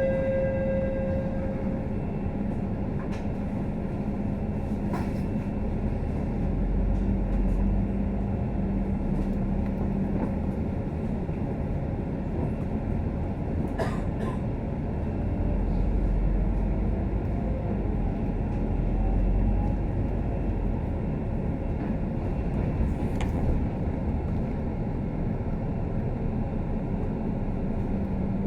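Inside a Scania K310UD double-decker bus under way: steady engine and road noise with a low drone that swells twice as the bus pulls, a hum that fades out about eleven seconds in, and a few sharp rattles or knocks from the body.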